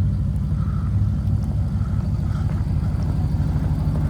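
2024 Ram TRX's supercharged 6.2-litre V8 running with a steady low drone, no clear revving.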